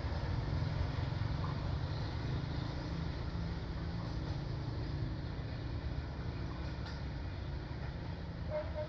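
Low rumble of a train running away along the track, slowly fading as it recedes.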